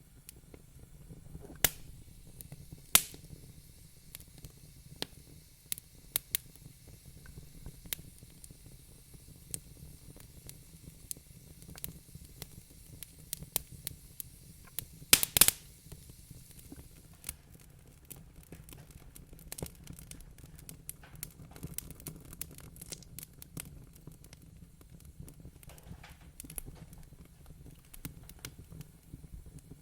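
Wood fire crackling in a fireplace: irregular sharp pops and snaps over a steady low rumble, with the loudest pops in a quick cluster about halfway through.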